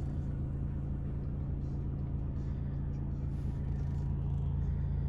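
Large diesel truck engine, the DAF XF106's Paccar 460 bhp Euro 6 unit, idling with a steady low hum.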